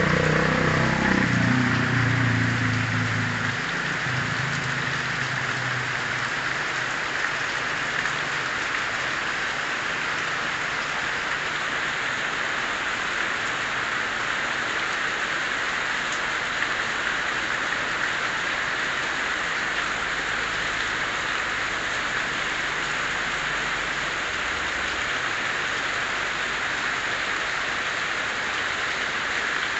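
Heavy rain falling steadily, an even hiss of rain on surfaces. In the first few seconds a passing vehicle's engine is heard and fades away.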